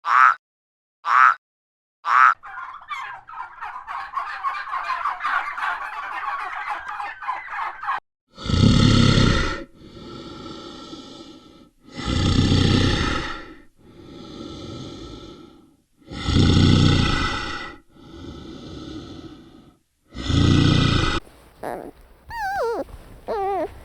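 A run of animal calls: a few short calls, then a long rapid rattling call. After that come loud, long calls alternating with quieter ones roughly every two seconds, and some gliding chirps near the end.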